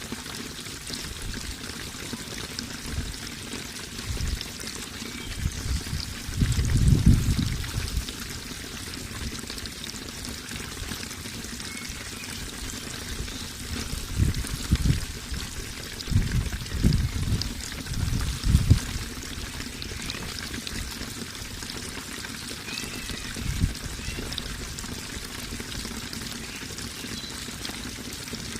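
Running water pouring and trickling steadily, with louder low surges about seven seconds in, several between fourteen and nineteen seconds, and once more near twenty-four seconds.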